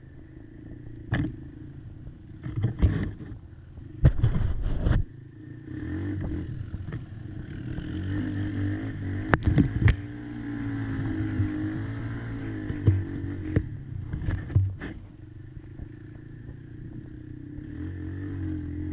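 Kymco Maxxer 300 quad's engine running, its pitch rising and falling as the throttle is opened and eased. Several loud knocks and clatters come over it.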